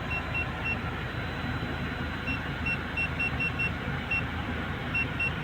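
Short, high electronic beeps in quick runs of several at a time, over a steady low vehicle rumble.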